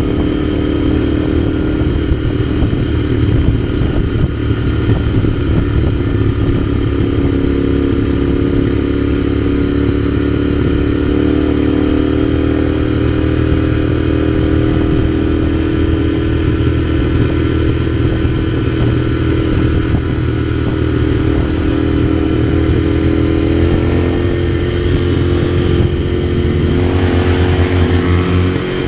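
Parallel-twin motorcycle engine running under steady throttle while riding, its pitch climbing briefly at the start and then holding nearly even, with a short dip and change in pitch near the end.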